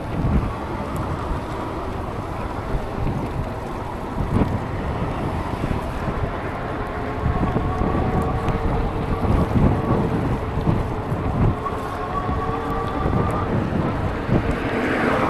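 Wind buffeting the microphone of a rider moving through rain, a dense low rumble. Through the second half a faint steady whine rises slightly in pitch.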